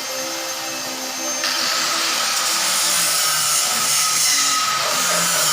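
Machinery running loudly and steadily, with a harsher, hissing noise cutting in about a second and a half in and staying.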